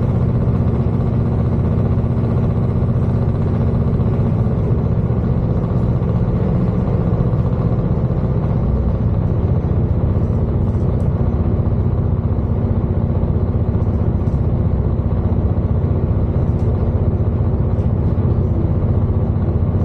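Cabin sound of a Class 221 Super Voyager diesel-electric train running along the line: a steady low rumble of its underfloor diesel engines and wheels on the track, with an even engine hum.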